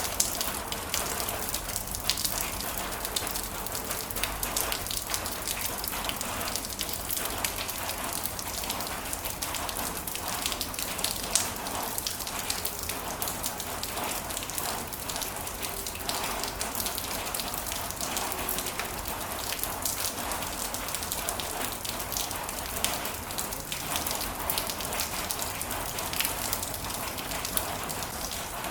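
Heavy rain falling steadily, a dense hiss of drops with many small sharp hits on surfaces.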